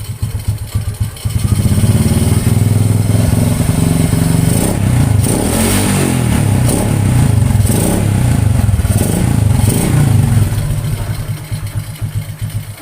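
Honda C70 small single-cylinder four-stroke motorcycle engine breathing through its original muffler with the baffles hollowed out: it pops at idle, is revved up about a second and a half in and blipped up and down several times, then drops back toward idle near the end.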